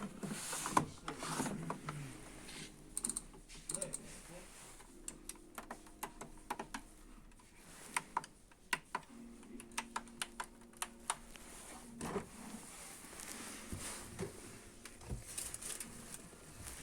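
Irregular run of sharp mechanical clicks and clatter, like keys or a ratcheting mechanism, with a steady low hum coming in twice midway.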